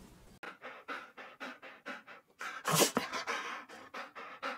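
Small black dog panting rapidly, about four quick breaths a second, with one louder, sharper burst a little past halfway.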